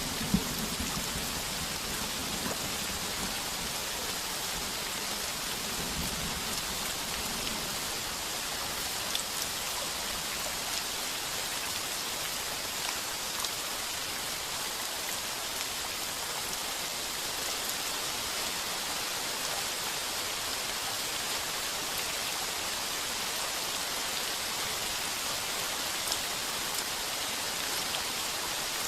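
Heavy rain pounding steadily on a tin roof, with a low thunder rumble fading out over the first several seconds.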